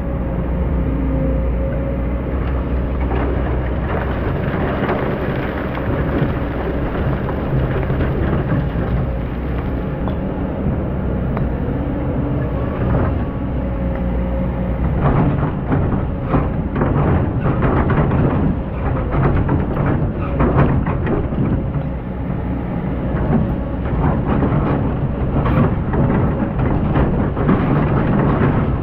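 Hydraulic excavator digging: a steady diesel drone, with the bucket scraping and crunching through hard-packed sand. The scraping and cracking grows denser about halfway through.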